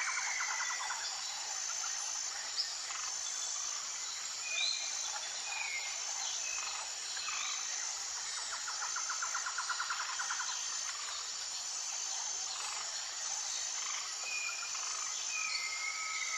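Outdoor nature ambience: a steady high-pitched insect chorus that pulses evenly, under scattered short bird calls and chirps. A rapid trill is heard at the very start and again for about two seconds around nine seconds in.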